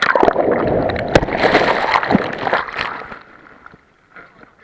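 Water splashing and sloshing, with a few knocks, loud for about three seconds and then fading away.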